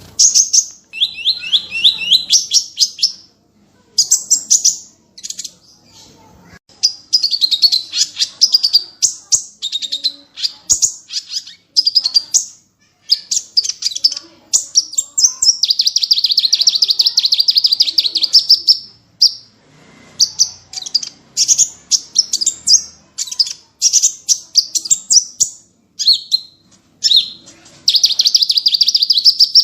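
Small songbirds singing fast, high-pitched runs of repeated chirps and trills in bursts of one to four seconds, with short breaks between them and one longer unbroken run about halfway through.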